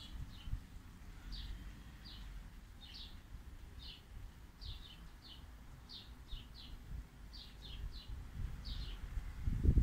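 A small bird chirping over and over in short high chirps, about one or two a second, some coming in quick pairs or threes, over a low rumble.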